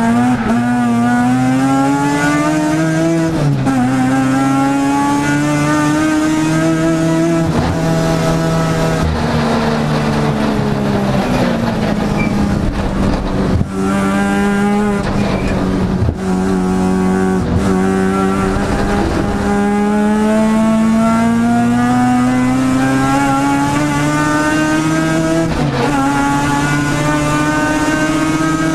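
Mazda RX-7 race car's rotary engine heard from inside the cabin, revving up through the gears: the pitch climbs and drops sharply at each upshift, about 3 seconds in and again near the end. In the middle the pitch falls for several seconds as the car slows, then climbs steadily again.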